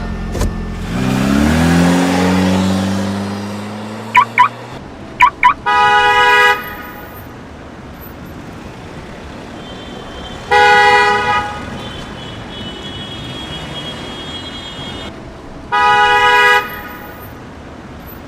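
Toy remote-control Mercedes car's sound effects: an engine rev rising in pitch over the first few seconds, a few short chirps, then three horn honks under a second each, about five seconds apart.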